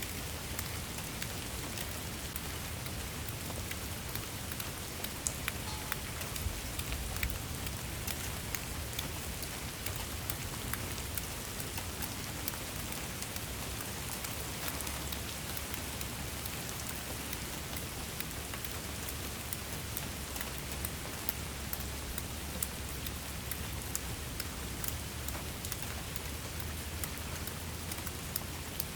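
Steady rainfall, a continuous hiss with many individual drops ticking on a surface and a low rumble underneath.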